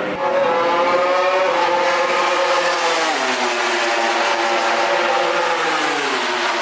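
MotoGP racing motorcycle engine running at high revs. Its note holds, then falls twice: about three seconds in and again near the end.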